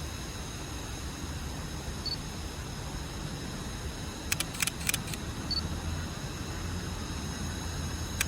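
Low steady rumble of an Alishan Forest Railway train pulling slowly into a station. A quick cluster of sharp clicks comes about halfway through and another near the end.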